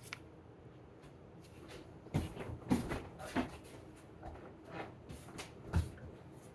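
A few short knocks and clatters of kitchen handling, spaced irregularly, the loudest about two to three seconds in and again near the end.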